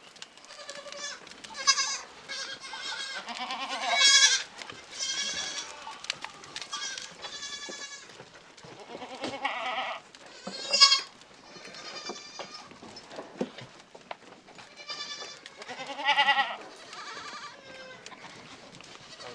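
A flock of bleating livestock: many overlapping bleats of different pitches, each with a quavering tremble. The loudest calls come about four seconds in, near eleven seconds, and around sixteen seconds.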